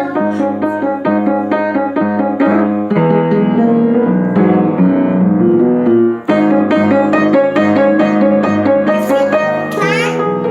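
Piano music, a steady run of sustained chords and melody notes, with a brief break about six seconds in.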